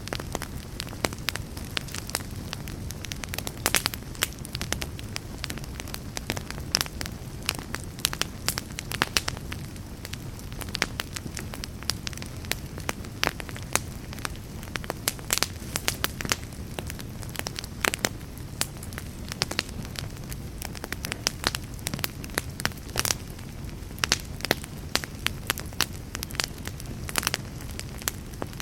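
Wood fire burning in a fireplace: logs crackling and popping in frequent irregular snaps over a steady low rumble of the flames.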